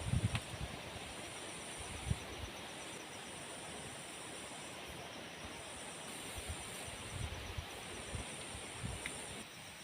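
Tropical forest ambience: a steady hiss, with insects buzzing in high bands that come and go every second or so, and a few dull low knocks. The hiss eases slightly near the end.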